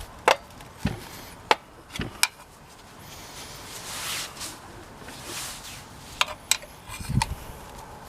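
Hand tools and metal engine parts knocking and clinking in scattered sharp clicks, with a stretch of scraping in the middle, as a valve cover is worked back onto a VW engine.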